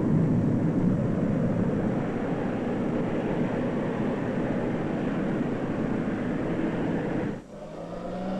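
Concorde 002 prototype's jet engines climbing at full power with reheat lit: a loud, steady, dense noise. It cuts off abruptly a little after seven seconds in, giving way to a steadier hum with a few held tones.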